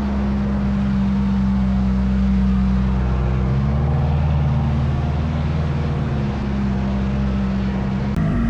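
A car engine idling steadily with a low hum, its pitch shifting slightly about three to four seconds in.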